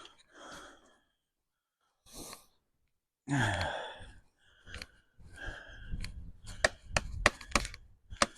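A man's breaths and a sighing grunt, then a quick run of sharp clicks and knocks from parts being handled on a compact tractor.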